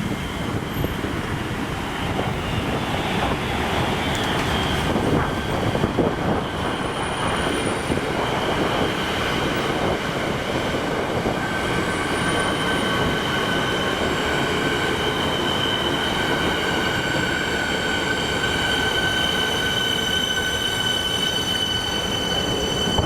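A train running past, its wheels squealing on the rails over a steady rumble. The high squeal comes in about halfway through and grows stronger toward the end.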